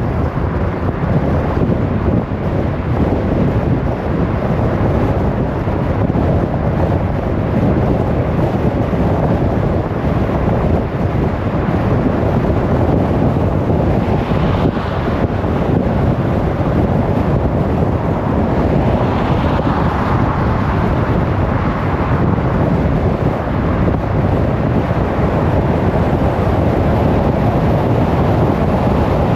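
A car driving at speed: steady road, tyre and wind noise, with two brief swells of higher-pitched noise around the middle.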